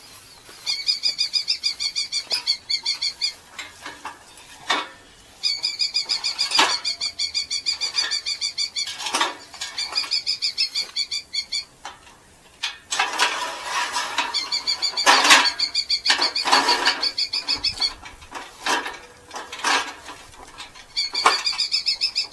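Red-footed falcons giving rapid, chattering calls in repeated bursts of a few seconds each. Knocks and rustling come in between the bursts, loudest about two-thirds of the way through.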